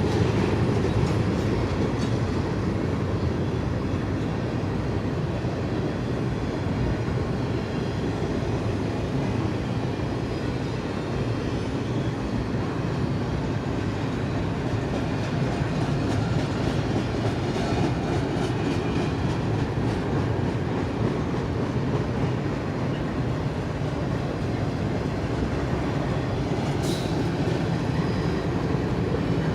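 Freight train of empty bare-table intermodal cars rolling past, a steady rumble with the clatter of wheels over the rails. Near the end comes one brief, sharp, high squeal.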